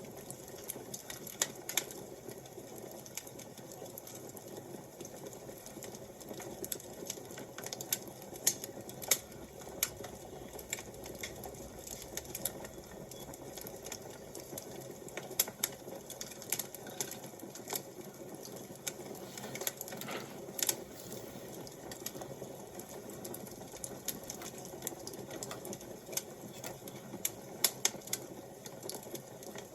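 Fire crackling: irregular sharp pops and snaps over a steady low rush, with a slightly longer, louder pop about twenty seconds in.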